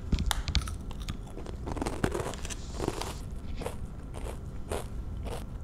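Crunching and chewing a baked cornmeal cheese puff, Trader Joe's Spicy Cheese Crunchies: a run of irregular crisp crunches.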